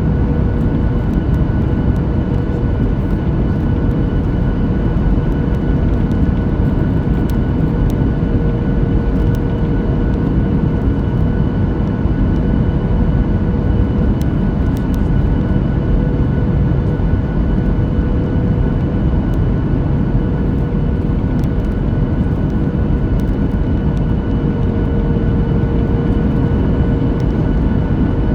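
Steady in-flight cabin noise inside a Boeing 737-9 MAX: a dense rush of airflow and engine sound from its CFM LEAP-1B turbofans, with a few steady tones held over it.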